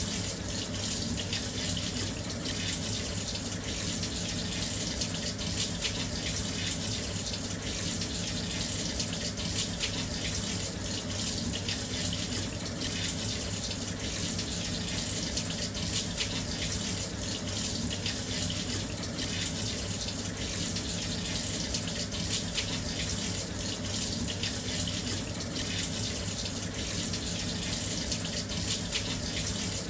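Washing machine filling with water: a steady, continuous rush of inflowing water.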